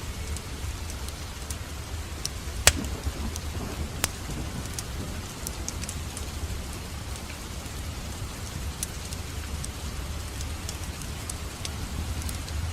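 Wood fire burning in a fireplace, crackling with frequent small pops over a steady low rumble of the flames; a sharp, louder pop comes about two and a half seconds in and another about four seconds in.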